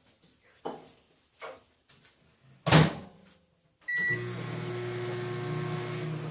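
Microwave oven being loaded and started: a few light knocks, the door shutting with a loud knock, a short beep, then the oven running with a steady hum.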